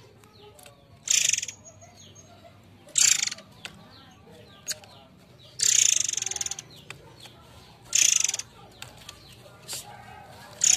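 Murai air (forktail) calling: four loud, harsh, rattling bursts about two to three seconds apart, the third the longest, with faint chirps in between.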